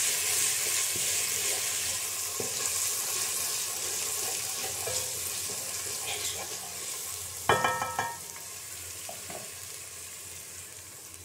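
Browned onions and ginger-garlic paste sizzling in hot ghee in a metal pot as they are stirred; the hiss slowly dies down. A short ringing knock about seven and a half seconds in.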